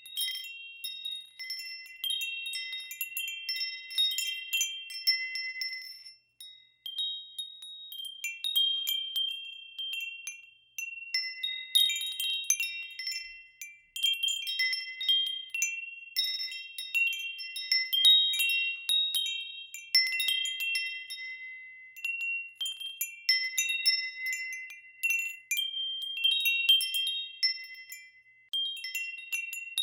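Wind chimes ringing, several high notes struck at irregular moments and overlapping as they ring on, with brief lulls about six and thirteen seconds in.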